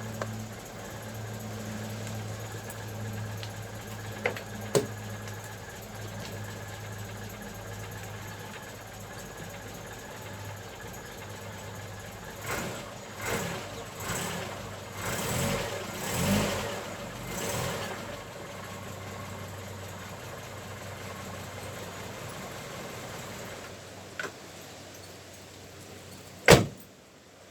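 1977 Princess 1800's 1.8-litre B-series four-cylinder engine running steadily at idle, freshly tuned with new points, retimed and carb adjusted. Midway it is revved in about five short blips, then it settles and stops near the end, followed by a sharp knock, the loudest sound.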